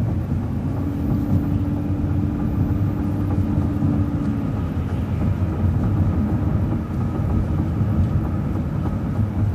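City transit bus driving: steady low engine and road rumble, with a steady hum over it for the first few seconds.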